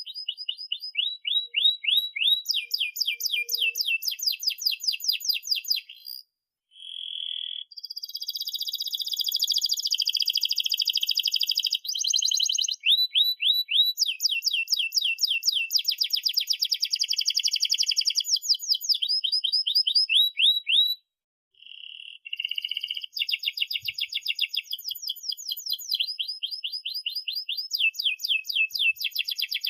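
Domestic canary singing a long rolling song: fast trills of rapidly repeated sweeping notes alternating with buzzy held phrases, broken by two brief pauses, about seven and twenty-one seconds in.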